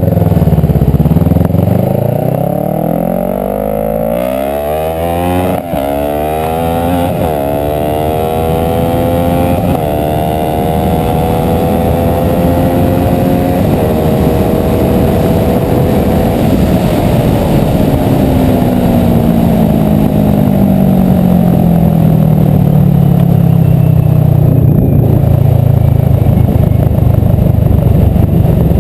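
Kawasaki ER-6N's parallel-twin engine under hard acceleration, the note climbing through several upshifts with a brief break at the first change, then holding high. Over the last ten seconds or so the pitch falls steadily as the motorcycle slows, with wind rush throughout.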